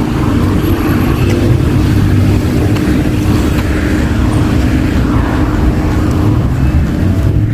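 City traffic: a steady, loud low rumble of passing motor vehicles, with an engine hum held at one pitch throughout.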